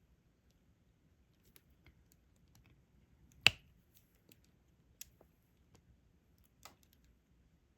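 Diamond-painting stylus picking up resin drills and pressing them onto the adhesive canvas: scattered small clicks and taps, with one sharp click about halfway through and two softer ones a little later.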